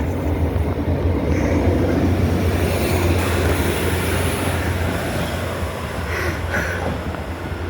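Diesel passenger train pulling out of the station, its engine running with a steady low drone under the wheel and rail noise.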